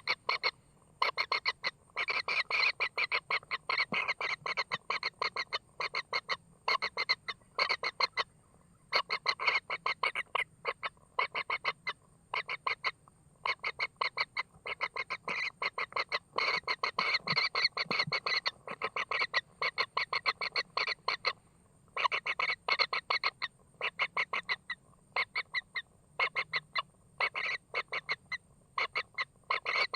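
Bird calls: fast runs of short, harsh notes repeated many times a second, broken by brief pauses.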